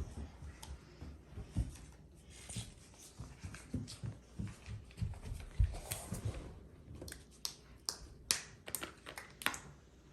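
Light handling noises: scattered soft thumps with taps and clicks, the clicks coming thicker and sharper in the last few seconds.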